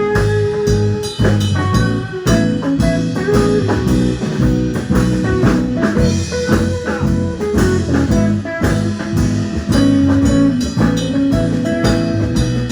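Live band playing an instrumental break with no singing: blues-style guitar over a drum kit.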